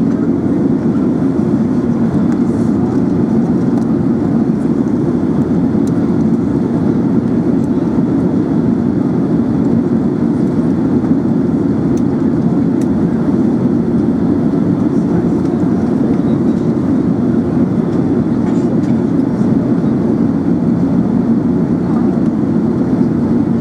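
Steady, unbroken drone of engines and airflow heard inside the cabin of an Emirates Airbus A380 in flight, deep and even with no changes.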